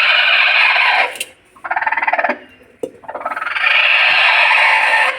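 Chickens squawking in loud, rasping calls: two long calls with a shorter one between them and a brief click in the middle.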